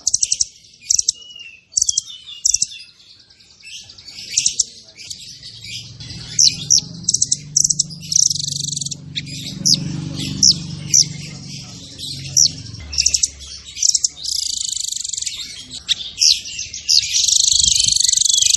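A songbird singing a fast, dense run of chirps, rattling trills and sharp down-sweeping whistles, packing together into near-continuous song near the end.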